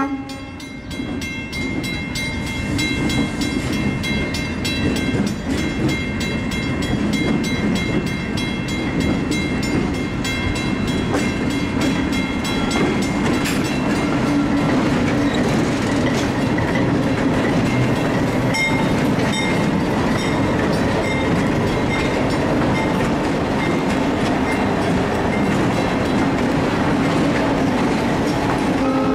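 A lashup of several Delaware-Lackawanna diesel locomotives passes close by with their engines running, followed by boxcars rolling over the rail joints with a steady clickety-clack.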